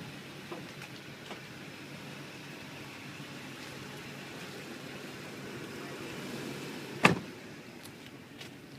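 Steady low hum of a vehicle running, with a single sharp knock about seven seconds in.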